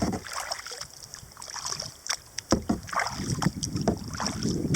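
Kayak paddling: paddle blades dipping and pulling through the water in uneven swells of splashing, with a few sharp clicks between strokes.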